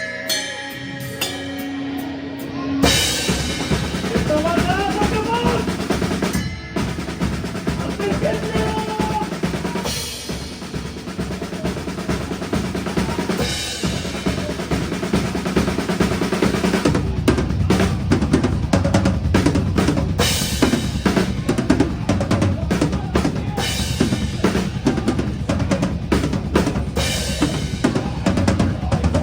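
Metalcore band playing live, heard close to the drum kit: a few seconds of held guitar notes, then the full band with kick drum and snare comes in about three seconds in. From about seventeen seconds the drumming turns into a dense, rapid run of kick and snare hits.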